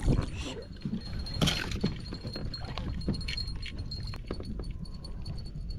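Irregular knocks and clinks of fishing gear being handled on a kayak, with a brief rustling rush about a second and a half in.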